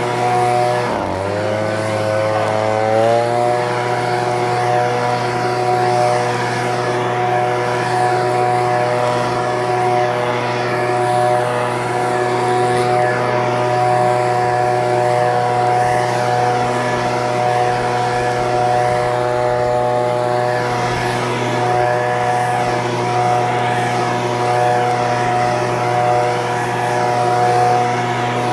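Echo PB-2620 handheld leaf blower's two-stroke engine running at high speed with a steady drone. About a second in, the engine speed dips sharply and climbs back over a couple of seconds, then holds steady.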